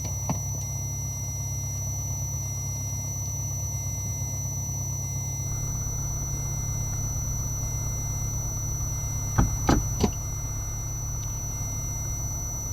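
Cessna 152's four-cylinder Lycoming engine idling steadily with the aircraft on the ground. Three sharp clicks or knocks come close together about nine and a half to ten seconds in.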